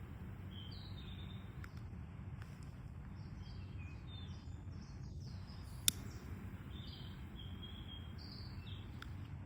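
Small birds calling outdoors, a series of short high chirps and twitters, over a steady low background rumble. A single sharp click sounds about six seconds in.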